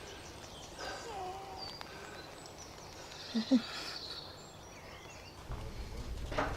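Quiet outdoor ambience with faint, scattered bird calls, broken by two short low sounds about three and a half seconds in; a low rumble rises near the end.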